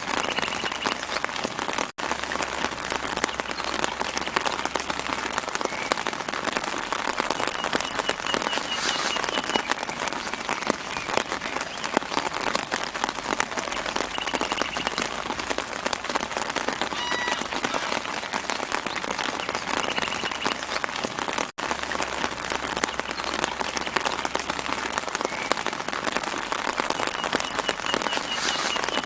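Steady light rain pattering on leaves, a dense crackle of drops, with faint bird chirps in the background every several seconds. The sound cuts out for an instant twice.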